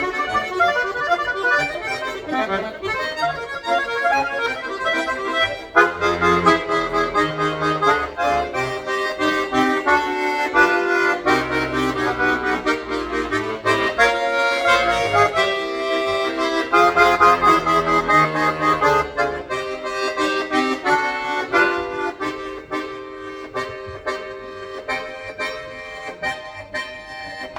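Solo accordion playing a fast piece: quick running notes over bass chords. The playing fills out with heavier bass about six seconds in and grows softer toward the end.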